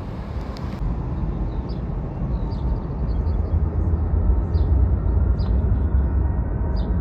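Low rumble of a jet airliner's engines taking off, swelling louder partway through.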